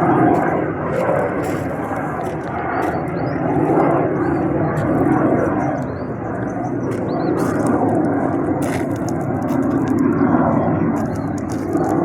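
A military training aircraft's engine running as it flies the circuit, a steady wavering rush that swells and fades slightly.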